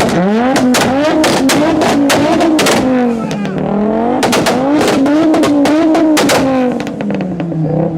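Volkswagen Golf 4 R32's 3.2-litre VR6 engine revving hard through its exhaust. The pitch climbs and falls several times, and the exhaust lets off many sharp cracks.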